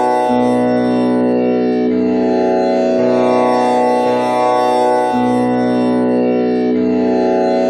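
Tanpura drone with Sa on B and the first string tuned to komal Ni (flat seventh) instead of Pa. Its strings are plucked in a repeating cycle, each new pluck coming in about every one to one and a half seconds over the ringing, buzzing sustain of the others.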